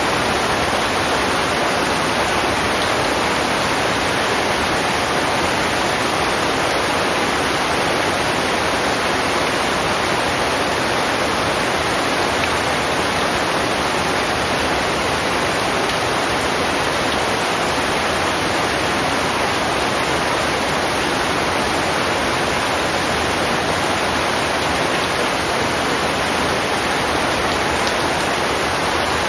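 Heavy rain falling in a steady, unbroken wash, with no separate drops or thunder standing out.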